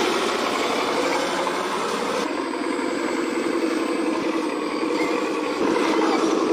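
Remote-controlled model Volvo dump truck running, giving a steady engine-like drone.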